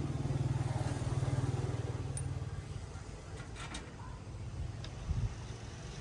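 An engine running close by with a low, rapid pulsing, loudest for the first two seconds and then fading away, followed by a few light clicks and a short knock.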